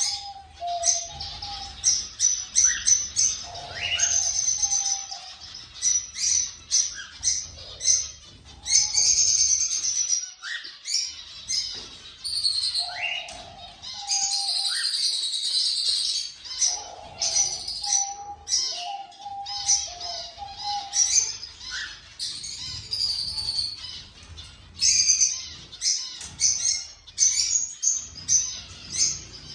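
Cockatiels chirping and calling, with many short, sharp calls overlapping continuously and a few clusters of lower notes.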